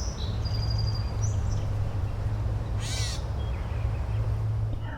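Nature-sound background: a few short, high bird calls and chirps, the clearest about three seconds in, over a steady low rumble.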